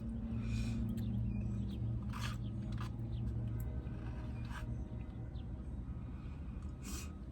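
Steady low hum with several short crackly crunching sounds spread through, a person eating.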